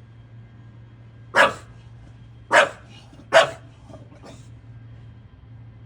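English bulldog barking three times: loud, short barks, the last two close together.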